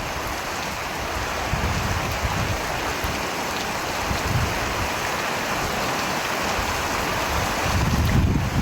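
Steady heavy rain hissing, with low rumbles swelling now and then, the strongest near the end.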